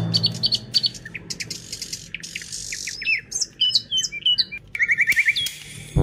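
Birds chirping: many short, high calls and whistles, with a quick run of repeated notes about five seconds in.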